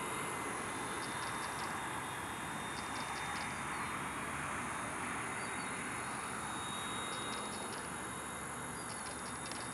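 Small electric RC helicopter in flight: a steady whir of its rotor and motor with a thin high whine.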